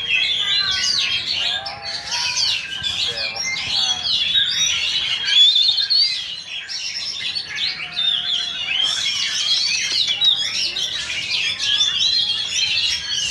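Several oriental magpie-robins (kacer) singing at once, a dense, unbroken stream of overlapping, rapidly varied whistles and chirps.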